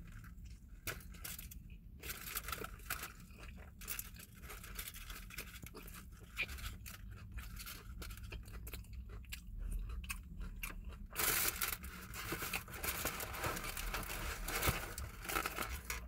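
Close-up mouth sounds of someone chewing and crunching a falafel pita, with paper wrapper rustling and crinkling loudest over the last few seconds.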